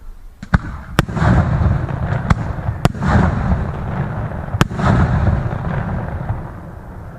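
Fireworks going off: about five sharp bangs, each followed by rumbling booms and crackling, dying away near the end.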